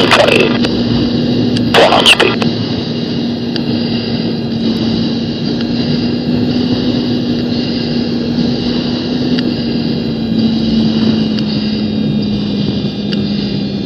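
Steady jet-engine whine and rumble of a CT-114 Tutor heard from inside the cockpit through the intercom, with a steady hum under it. Two short, loud rushes of noise come in the first two seconds.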